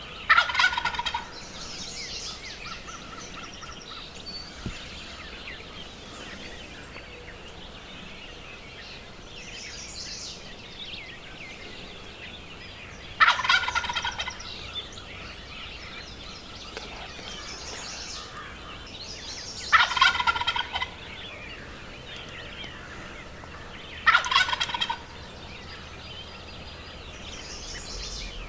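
Wild turkey gobbling four times: one gobble at the start, then three more spaced a few seconds apart in the second half, each a quick rattling burst. Small birds chirp faintly in the background.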